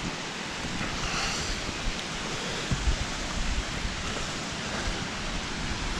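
Summerhill Force waterfall rushing steadily, with wind buffeting the microphone in gusts, most strongly about three seconds in.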